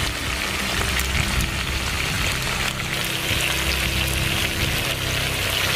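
Chicken pieces and green peppers sizzling as they fry in hot oil in a pan: a steady hiss with fine crackling.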